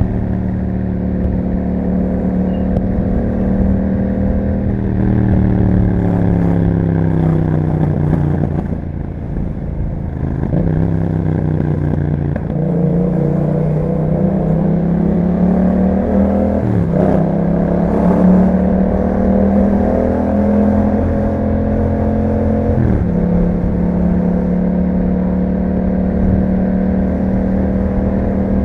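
2021 Yamaha MT-07's 689 cc parallel-twin engine through an Akrapovic exhaust, heard while riding. It holds steady revs, then the revs fall away over several seconds as the bike slows. It picks up again with two upshifts, the pitch dropping sharply at each shift past the middle and again near the end, before settling to a steady cruise.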